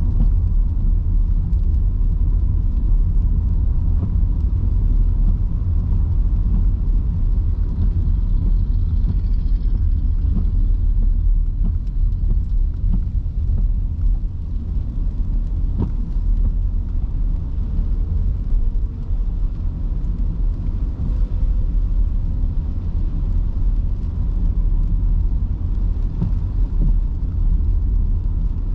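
Steady low rumble of an electric car driving on rain-soaked city streets: tyre and road noise in heavy rain, with one sharp click about halfway through.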